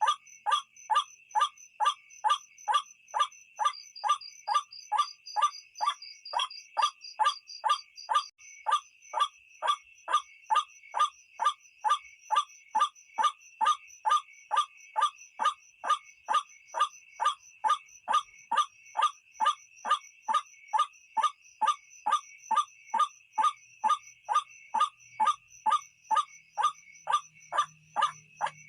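White-breasted waterhen (ruak-ruak) calling: short harsh notes repeated steadily, about two a second, over a steady high-pitched hum in the background.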